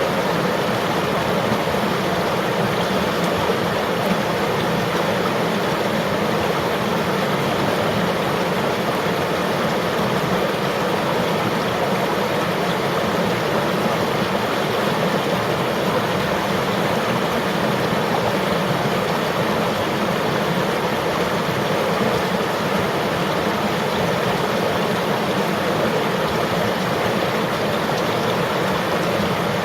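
River water flowing and rushing over rocks in a steady, even wash.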